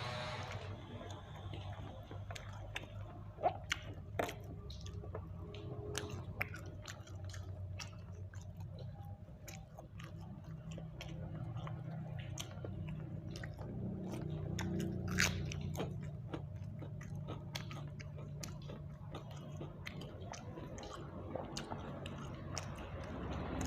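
A person chewing and biting into grilled chicken (ayam bakar), with many scattered sharp mouth clicks and crunches, a few louder ones early on and about two-thirds through, over a low steady hum.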